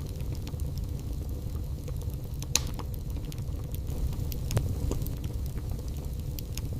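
Wood fire burning in a fireplace, crackling with scattered sharp pops over a steady low rumble. The loudest pop comes about two and a half seconds in, and another about a second after the middle.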